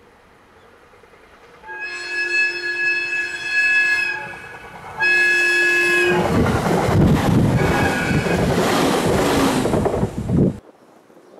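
JR East 701 series electric train sounding its horn twice, a blast of about two seconds and then a shorter one. It then passes close with loud wheel and rail rumble, which cuts off abruptly near the end.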